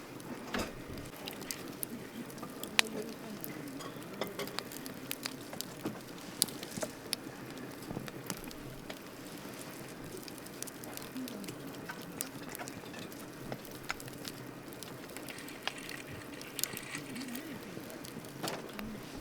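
Wood campfire crackling: irregular sharp pops and snaps over a steady low hiss of burning, with one louder pop about three seconds in.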